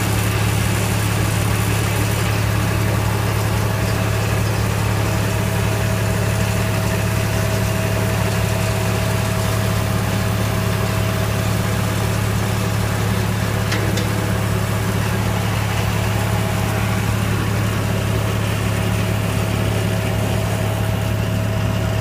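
Tractor engine running steadily at idle, with a steady thin whine above the engine note and a single small click about two-thirds of the way through.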